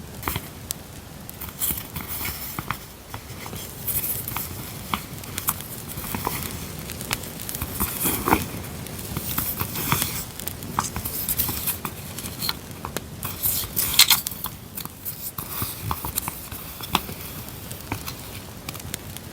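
Paper journaling supplies rustling and crinkling as they are handled, over an added campfire track of irregular small crackles and pops. The handling gets busier about eight seconds in and again about fourteen seconds in.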